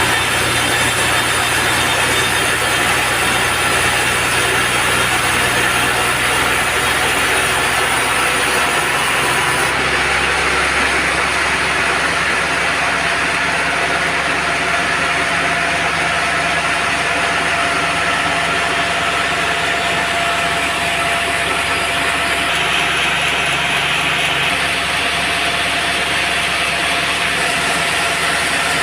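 Band sawmill running steadily, its blade sawing through an old teak log, with steady mechanical noise that thins in its highest tones about ten seconds in.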